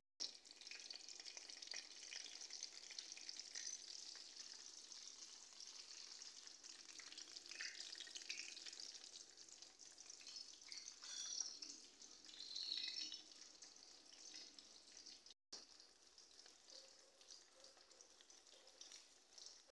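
Hot oil sizzling and crackling as slices of canned luncheon meat shallow-fry in a steel wok, with a few louder crackles about halfway through.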